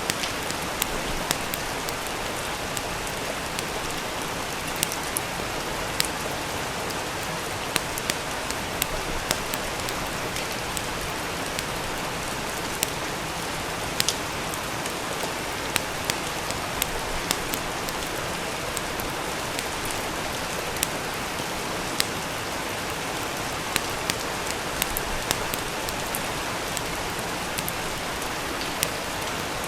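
Steady rain falling, with a wood fire crackling: irregular sharp pops scattered throughout, sometimes several close together.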